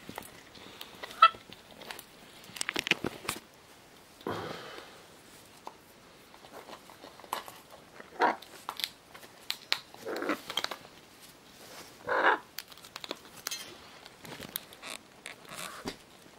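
Scarlet macaws chewing and tearing at something, with scattered clicks and crunches and a few short calls.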